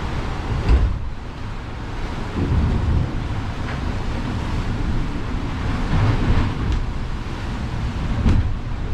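Wind and sea noise aboard a sailing yacht under way in a swell: a rough rumble that swells and eases, with a few short knocks.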